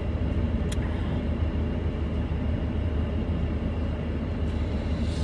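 Steady low rumble of a car heard from inside the cabin, with one short click about a second in.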